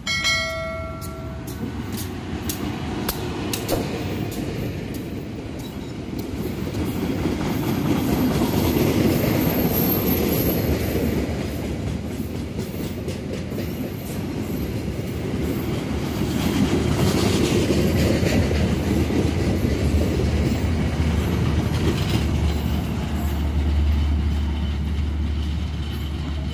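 Diesel-hauled passenger train passing close by: a short horn note at the start, then the locomotive and coaches rumbling with the clickety-clack of wheels over rail joints. The sound swells twice as the carriages go past.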